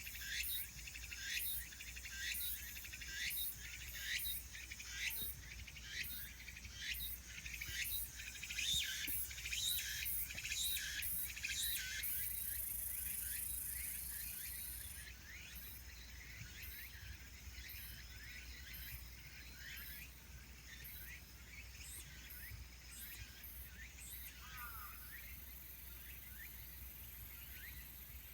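Insects chirping in quick repeated high pulses, with a steady high trill for a few seconds around the middle, then fainter chirping. A single short falling bird call near the end.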